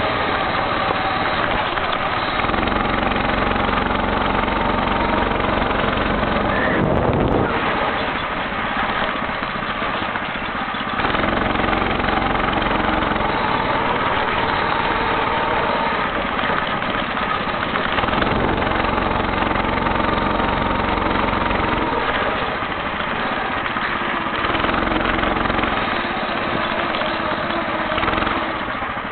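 Homemade motorcycle's engine running on the move, its note rising and falling as the throttle changes, with a short rising rev about seven seconds in.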